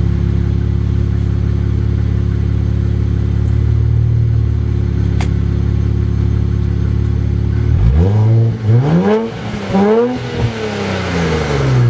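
Infiniti Q50's 3.0-litre twin-turbo V6 (VR30) through a new Stillen catback exhaust, idling steadily, then blipped in several quick revs that rise and fall over the last four seconds.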